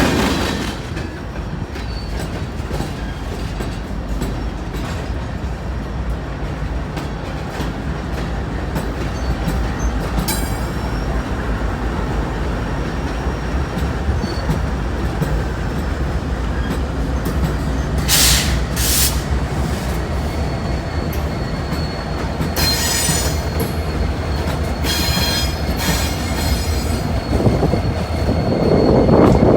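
Train cars rolling past with a steady low rumble, and high-pitched wheel squeals coming in over the last third.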